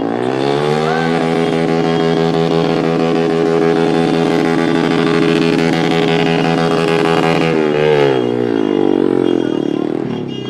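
Motorcycle engine revving up and held at high revs for about seven seconds, then the revs drop away near the end.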